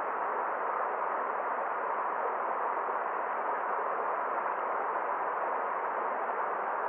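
Forest stream flowing, a steady, even rush of water without distinct splashes or other sounds.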